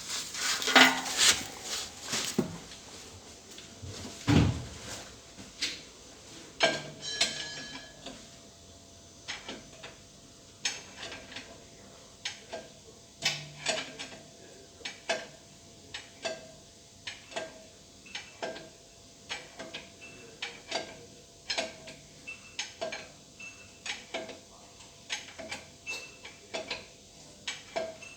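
A run of sharp metallic clinks and knocks, roughly one a second, each with a short ring, over a faint steady tone. It is louder and busier in the first few seconds.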